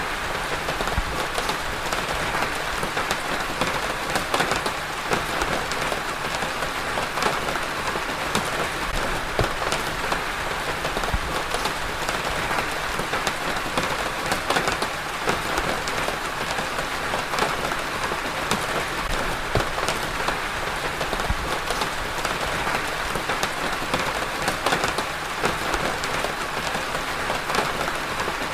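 Steady rain falling, with many separate drops ticking sharply against a surface over an even hiss.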